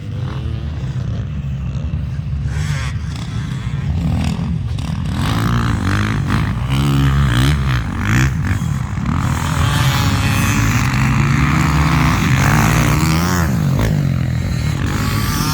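Motocross bike engine revving up and down repeatedly, its pitch rising and dropping as the rider works the throttle and gears, getting louder about two-thirds of the way through.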